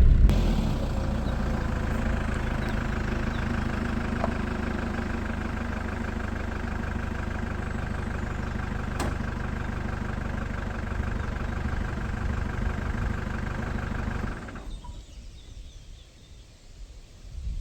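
Vehicle engine idling steadily, then switched off about fourteen seconds in, leaving quiet outdoor ambience.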